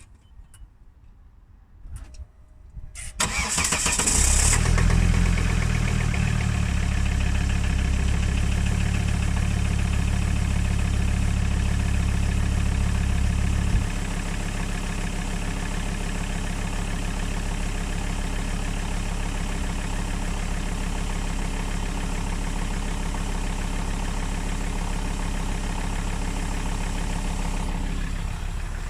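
Volvo D5244T4 five-cylinder 2.4-litre turbodiesel cold-started at about 3 °C: a few clicks, then it cranks and catches about three seconds in and runs at a raised cold idle with a knock, which the owner has not yet traced. About fourteen seconds in the idle steps down to a lower, quieter speed.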